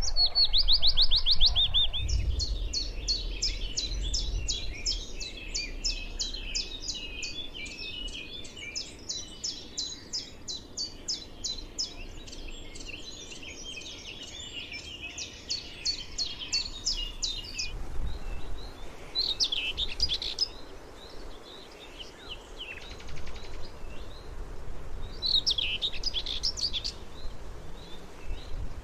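Small songbirds singing. A quick falling trill leads into a long run of rapid, high twittering chirps. After a break, separate short song phrases come near the end.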